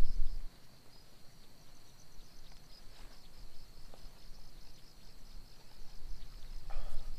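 Insects chirping in a steady high-pitched pulse, about five chirps a second. A low rumble opens the sound and returns near the end.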